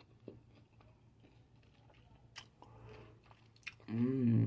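A person chewing a bitten, candy-coated grape, with faint wet clicks and small crunches. A short voiced sound from the eater near the end is the loudest part.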